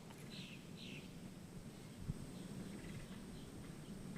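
Faint outdoor background with short high chirps from a small animal, repeating about twice a second and fading after the first second, and a single soft click about two seconds in.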